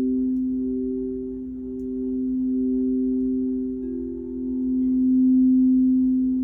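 Crystal singing bowls ringing in sustained, overlapping pure tones, the loudness slowly swelling and ebbing; another tone joins about four seconds in.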